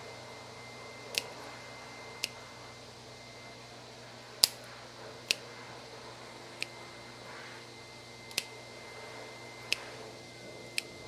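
Dog nail clippers snipping through a dog's nails, eight sharp clicks spaced unevenly about a second apart, taking a small bit of nail at each cut. A steady hum runs underneath.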